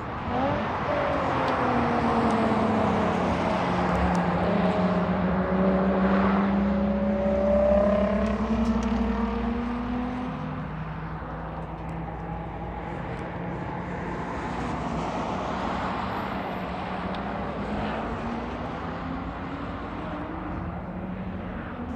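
Sports car engine running at speed on a race track: its pitch falls gradually over the first several seconds while it is at its loudest, then holds steady and rises again near the end.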